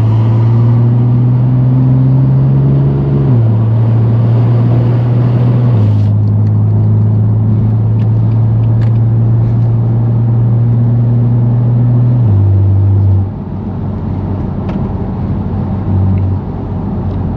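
The straight-piped S55 twin-turbo inline-six of a 2018 BMW M3 Competition droning at low, steady revs while driving, its pitch stepping down a few times. About two-thirds of the way through it turns quieter and lower.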